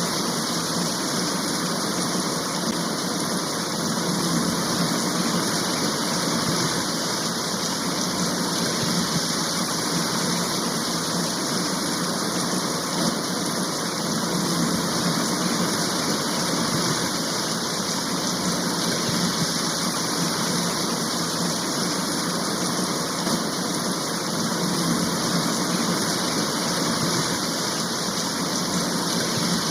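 Steady rain of a heavy shower, an even hiss that does not let up.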